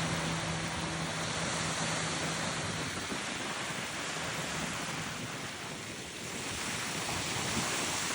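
Steady rushing noise of moving air or water, with a low hum that fades out about three seconds in.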